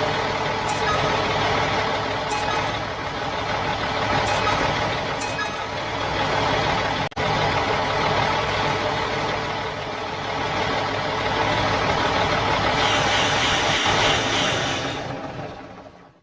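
Truck engine running steadily, cut off for an instant about seven seconds in, then fading out near the end.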